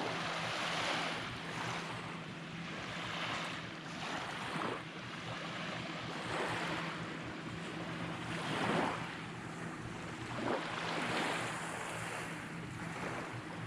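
Small waves washing onto a sandy beach, the sound swelling and easing every second or two.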